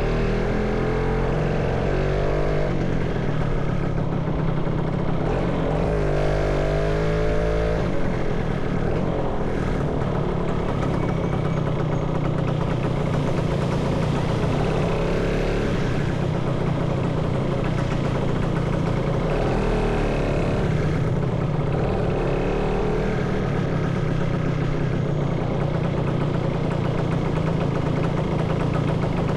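Motorcycle engine running on the move, its pitch rising and falling with the throttle several times, over steady road noise.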